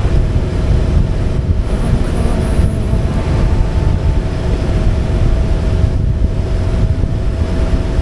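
Motorcycle running at a steady highway cruise, with heavy wind rushing over the microphone.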